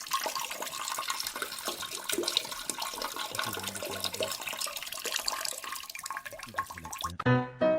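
Rushing, splashing water, cutting off suddenly about seven seconds in as piano music begins.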